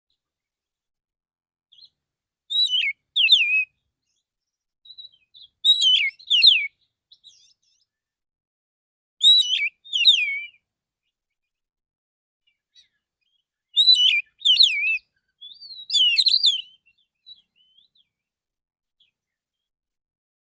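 Male oriental magpie-robin singing a relaxed song: five short phrases of quick rising and falling whistled notes, a few seconds apart, the last two close together, with silence between them.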